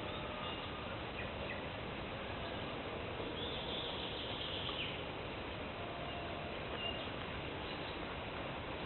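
Forest birds singing and calling over a steady background hiss, with a brighter high trill about halfway through.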